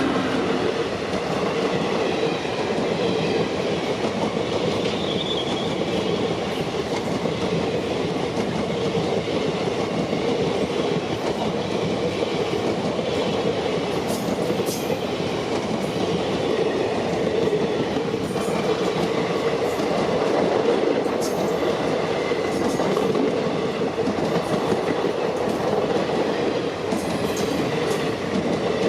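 Express train running past at speed: a steady, loud rumble of wheels on rail throughout, with a few sharp clicks scattered through it.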